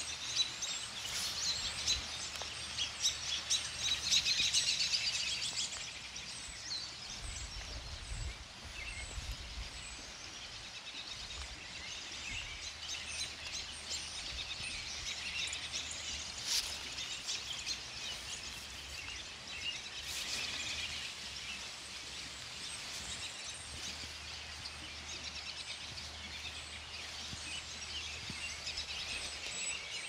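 Several small birds chirping and calling over outdoor background noise, busiest in the first six seconds and again about twenty seconds in.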